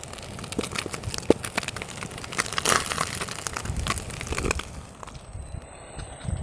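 Plastic sheeting being handled, crinkling and crackling in dense irregular bursts that thin out about five seconds in.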